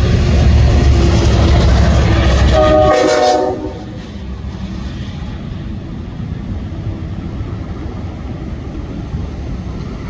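Passenger train of C3 bilevel coaches rumbling past on the rails, with a short train horn sounding about three seconds in, its pitch stepping down. The rumble then drops off sharply as the end of the train goes by, leaving a fainter steady noise.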